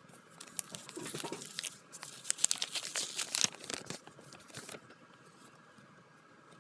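Packaging being handled and opened: a few seconds of crinkling and tearing of paper or plastic, busiest in the middle, then it stops about five seconds in.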